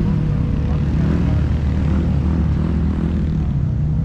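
A motor vehicle's engine running steadily, a low, even drone.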